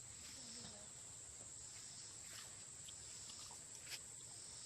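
Steady high-pitched insect chorus, a constant shrill drone, with faint rustles and one sharp click near the end.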